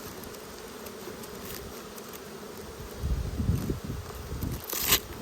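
Honeybees buzzing steadily around an open Langstroth hive, with low bumps partway through and a short sharp noise near the end.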